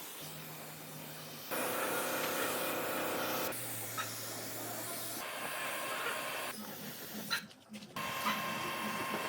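Hissing noise mixed with a steady machine hum and whine. The sound changes abruptly several times, about every one to two seconds, with a brief drop near the middle.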